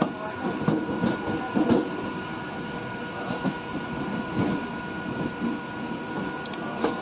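Train running past on the track, its wheels clattering irregularly over the rails, over a steady high hum.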